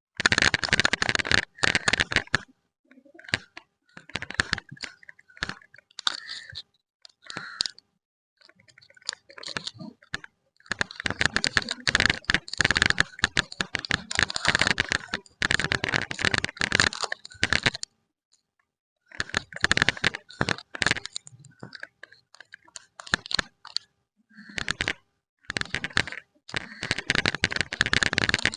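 Plastic candy and lollipop wrappers crinkling and crackling as they are handled and unwrapped. The noise comes in irregular bursts, with several short pauses between them.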